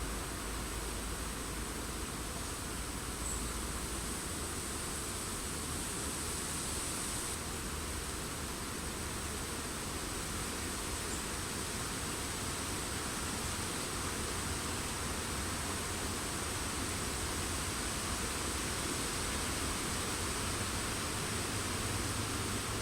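Steady, even hiss of wind moving through forest foliage, with no distinct bird calls.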